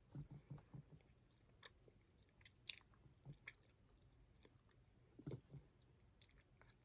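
Faint, close-up chewing of candy: soft wet mouth clicks and smacks, a quick run of them at the start, a few single clicks in the middle and another short run about five seconds in.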